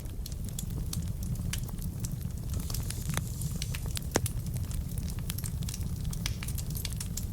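Wood fire burning in a fireplace: a steady low rumble of flames with irregular sharp crackles and pops from the burning logs, the loudest pop about four seconds in.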